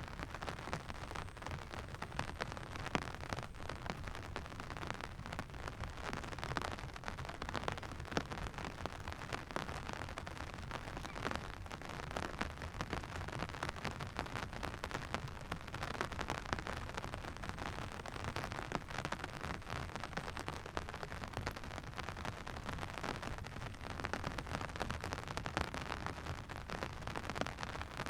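Steady rain falling, a continuous patter of many small drops.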